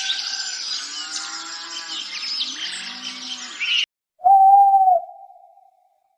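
Animal calls in two cut-together recordings: a dense chorus of many birds chirping, with lower calls gliding beneath, that cuts off abruptly just before four seconds in; then, after a short gap, one steady held call of under a second that fades out.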